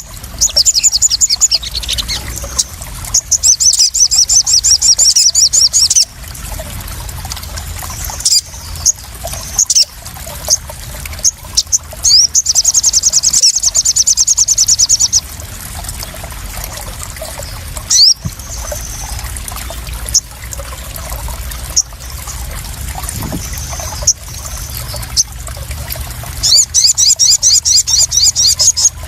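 A sogon sunbird gives rapid, high, trilling chirp runs of a few seconds each, four times, with single sharp chirps in between. Trickling, splashing water runs underneath throughout.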